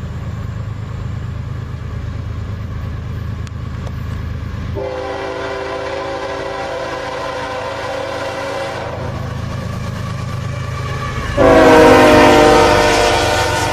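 Approaching CSX freight train with a steady low diesel rumble, its locomotive air horn sounding a long chord from about 5 to 9 seconds in. A second, much louder horn blast starts about 11 seconds in.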